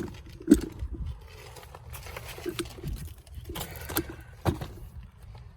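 Handling noise: scattered light knocks and rustling, with a sharp knock about half a second in and a few more knocks later on, as the camera is moved and set down.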